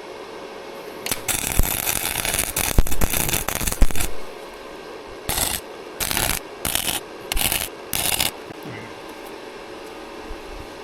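Flux-core wire-feed welder arc crackling as a pulley is welded onto a flywheel: one weld of about three seconds, then five short tack welds in quick succession.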